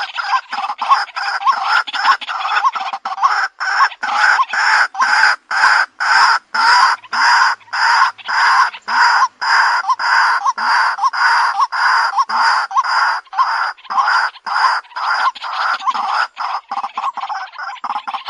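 White-breasted waterhen (Amaurornis phoenicurus) giving its repeated 'ruak-ruak' call as a lure call, a steady run of about two to three notes a second.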